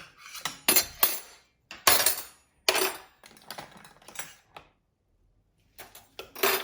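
Metal cutlery clattering and clinking as spoons are lifted from a dishwasher cutlery basket and dropped into a drawer, in several separate bursts with a short pause about five seconds in.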